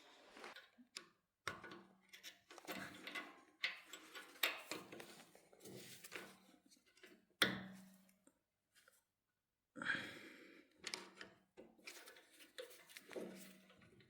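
Irregular knocks, clinks and scrapes of metal parts and tools being handled, with two brief silent gaps.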